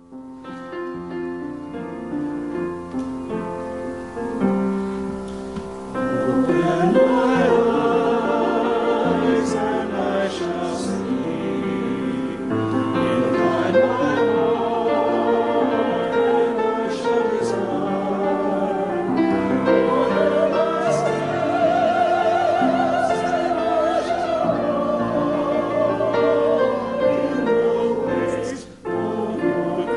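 Church music: a soft keyboard introduction, then voices singing with vibrato over piano accompaniment from about six seconds in, with a short break between phrases near the end.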